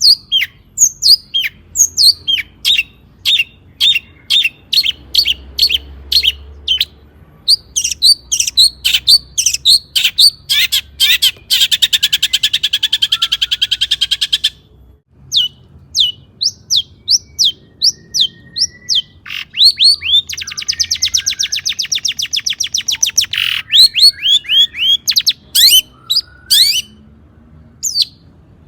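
Long-tailed shrike (cendet) singing: a quick run of short, sharp, downward-sweeping chirps, broken twice by a long, fast, buzzy rattling trill lasting about three seconds.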